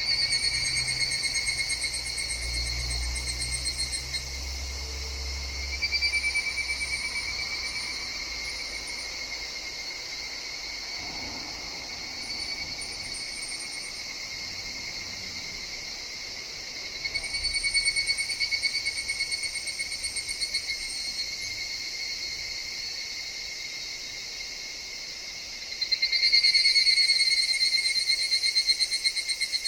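Higurashi (evening cicadas) calling in rapid trills that swell and fade in four bouts. The loudest bout comes near the end. A low rumble sounds in the first few seconds.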